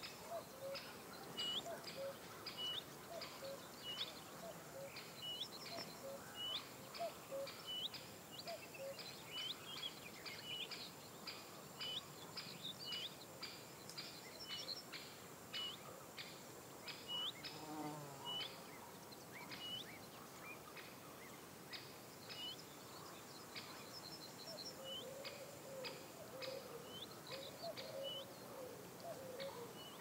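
Outdoor birdsong: one bird repeats a short high chirp about once a second, over a scatter of other brief high calls. Lower wavering calls come in near the end.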